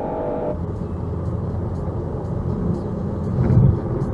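Car driving on a road: a steady low rumble of engine and tyres, with a faint ticking about twice a second and a louder swell of rumble near the end.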